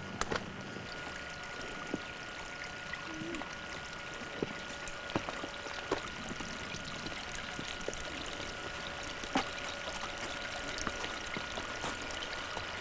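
Steady rush of running water from a stream, with a few scattered light clicks over it.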